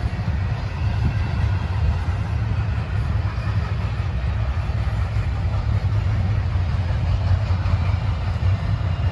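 Double-stack intermodal container train rolling past, a steady low rumble of steel wheels on the rails.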